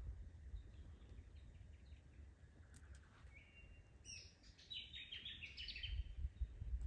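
Faint birds calling: a short whistled note about three seconds in, then a quick run of high chirps, over a faint low rumble.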